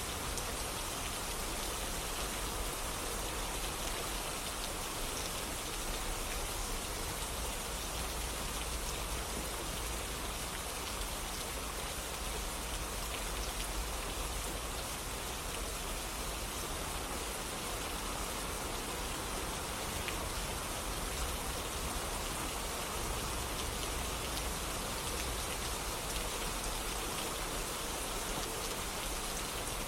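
Steady rainfall pattering on surfaces, an even continuous hiss with no pauses or changes.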